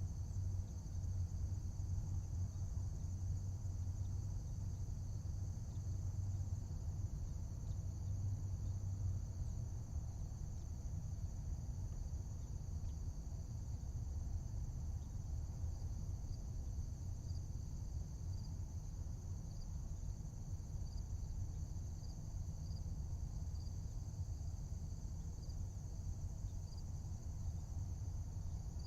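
Steady high-pitched chorus of crickets and other insects over a low, even rumble, with short chirps repeating at a regular pace from about halfway through.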